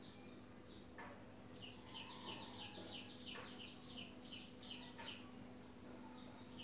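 A bird chirping faintly in a quick run of short falling chirps, about five a second, that starts about a second and a half in and stops near the end. Three soft clicks and a low steady hum lie underneath.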